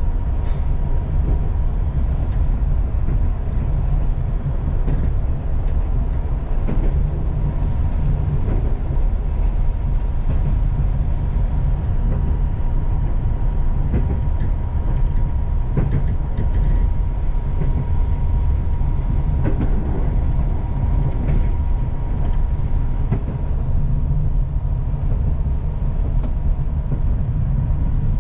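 Passenger train running at speed, heard from inside the coach: a steady low rumble of wheels on the track, with a thin steady whine above it and a few light clicks.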